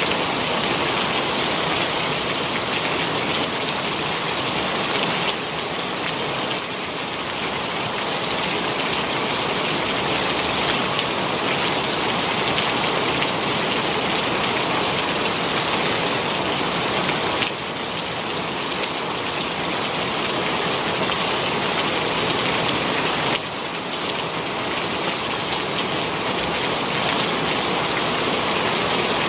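Heavy rain pouring down in a steady, dense hiss. The level drops suddenly three times, about five, seventeen and twenty-three seconds in.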